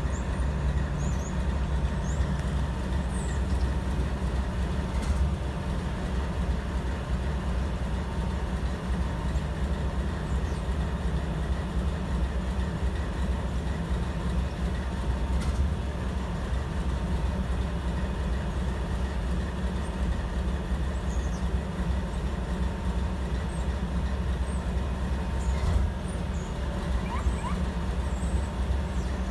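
Freight train rumbling steadily in a rail yard, a low continuous drone with a few faint clicks.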